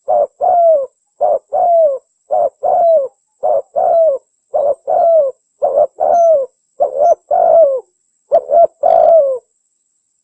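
Terkukur merah dove cooing in a quick, repeated series of low coos. Each pair is a short note followed by a longer note that droops in pitch. The calls stop shortly before the end.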